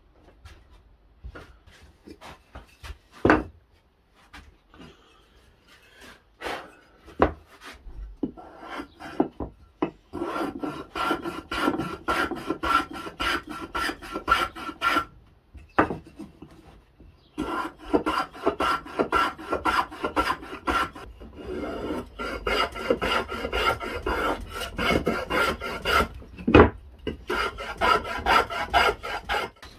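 Wood being worked by hand with an abrasive tool, in fast back-and-forth scraping strokes. The strokes come in several long spells from about a third of the way in, and a few sharp knocks fall between them, the loudest a few seconds in.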